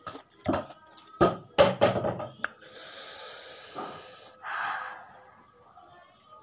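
Close-up mouth sounds of eating spicy pickled cucumber (asinan timun): several sharp crunches as the cucumber is bitten and chewed in the first two and a half seconds, then a long hissing breath drawn in and a short sucking sound.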